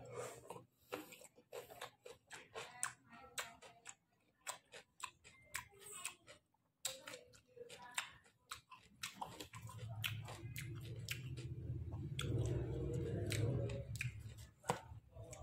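Close-up chewing of roasted pork: wet mouth smacks and sharp clicks, with a louder, deeper stretch of chewing from about ten to fourteen seconds in.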